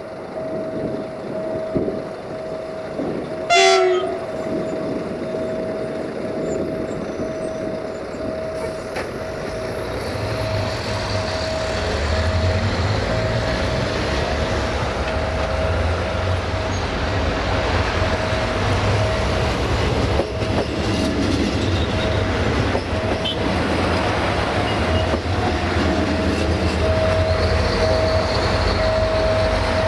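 Diesel multiple unit (IC2 DMU railcar) with a short horn blast about three and a half seconds in, then its diesel engine rumble building from about ten seconds in as the train draws near and passes. A steady high tone runs throughout.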